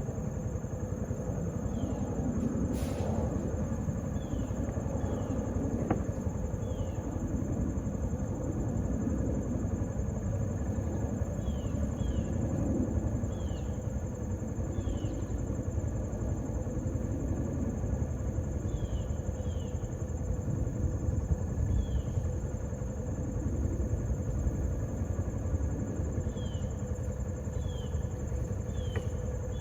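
Vehicle engine running steadily, with short high chirps at irregular intervals.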